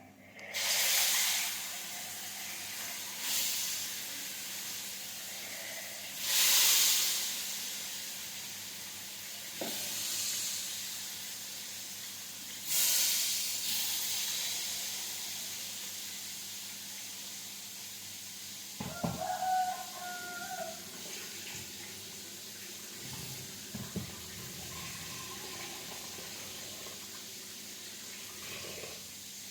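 Food frying in hot oil. The sizzle surges loudly about five times in the first half, then settles into a steady, slowly fading sizzle.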